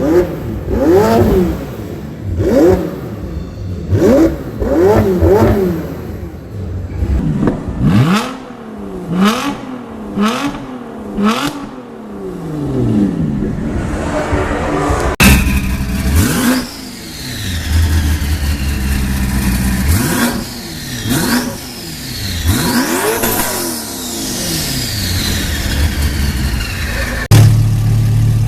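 Sports car engines revving hard in short repeated blips, the pitch rising and falling each time, with a few longer sweeps up and down the revs. The sound changes abruptly twice, about halfway through and near the end, as a different engine takes over.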